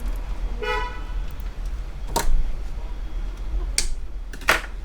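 Sharp plastic clicks and knocks from handling and tying down the SSD's SATA cable inside a PC case: three separate clicks about a second and a half apart, over a steady low hum. Near the start there is a brief pitched tone.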